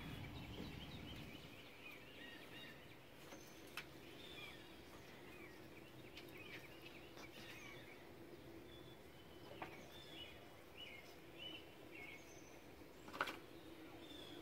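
Faint bird chirps over quiet outdoor background noise, with a few sharp clicks, the loudest about thirteen seconds in.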